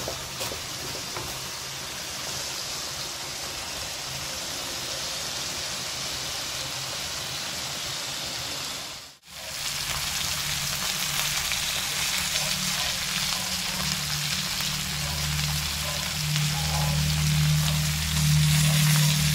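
Talangka, small freshwater crabs, sizzling as they fry in oil in a pan after their liquid has boiled off, a steady frying hiss. The sound drops out for a moment about nine seconds in. After that a low steady hum joins the sizzle and grows louder toward the end.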